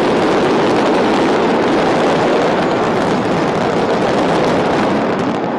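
Fireworks display at its height: a loud, dense, continuous wash of crackling from many shells bursting at once. It eases off slightly near the end.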